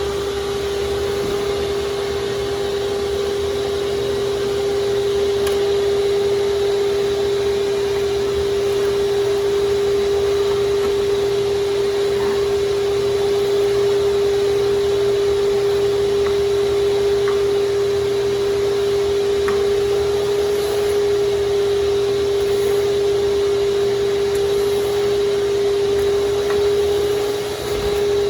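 Shop vac running steadily while vacuuming out a fireplace, with a strong, steady whine from the motor and a brief dip in level near the end.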